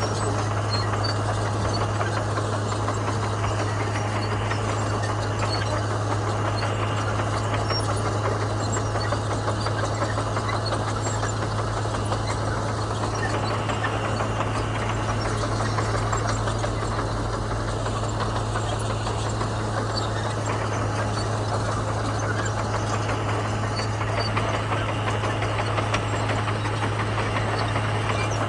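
Komatsu bulldozer's diesel engine running steadily, with a strong, even low hum.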